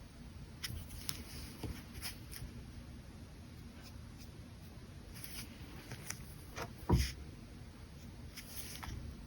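Brush pen working on paper: scattered light clicks, taps and soft scrapes, with one louder, deeper knock about seven seconds in.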